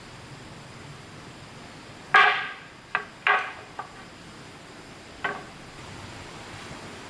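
Hard objects knocking together five times, each strike ringing briefly. The loudest is about two seconds in, three more follow quickly, and a last one comes past five seconds.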